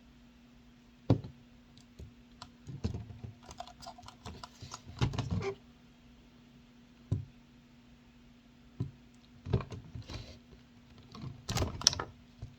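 Irregular clicks and knocks of small hard objects being handled, with a denser rattle of clicks about five seconds in and again near the end, over a faint steady hum.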